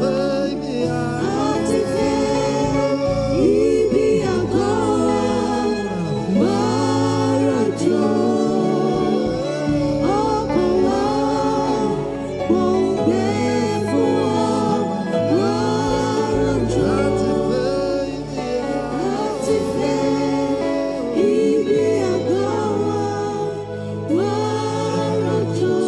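Gospel worship music: singers with choir-like backing voices over sustained bass and keyboard, the voices sliding between held notes.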